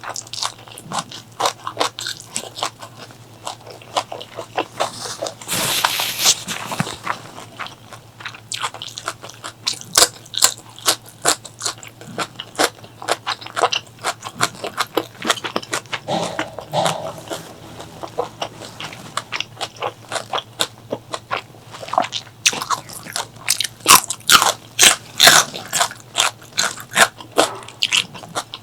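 Close-miked eating: biting and chewing food, a quick run of crunchy clicks with a brief noisy burst about six seconds in. The clicks come thickest near the end.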